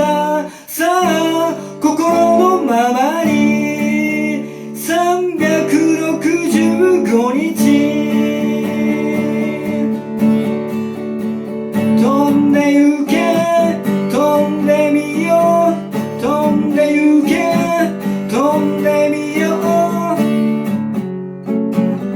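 Acoustic guitar strumming chords under a gliding melody line, with no sung words: the song's closing section.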